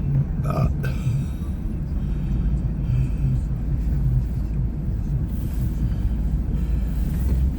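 Vehicle engine running with a steady low rumble while driving slowly.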